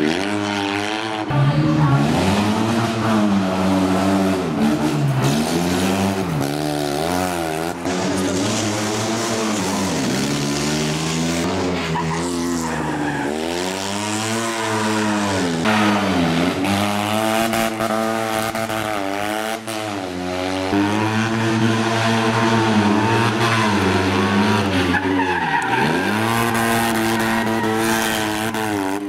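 Fiat 126p rally car's air-cooled two-cylinder engine revving hard at speed, its pitch climbing and dropping again and again through gear changes and corners.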